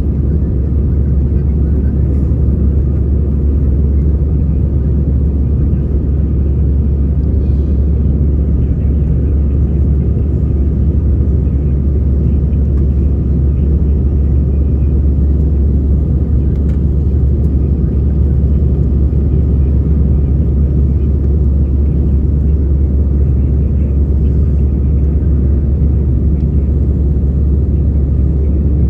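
Steady low rumble of an Airbus A320's engines and airflow heard inside the passenger cabin in flight, with a faint steady whine above it.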